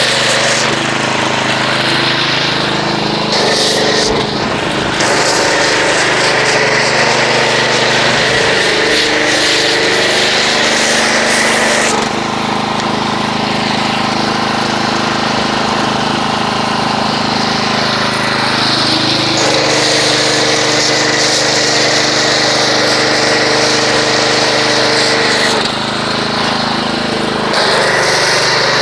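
Pressure washer running steadily while its foam cannon sprays soap foam, a hiss over the motor's hum; the motor's pitch shifts twice.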